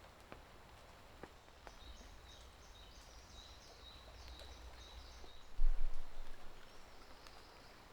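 A bird calling with a run of short, high repeated notes, about three a second, over a few seconds. A few light clicks come early on, and a brief low rumble about five and a half seconds in is the loudest sound.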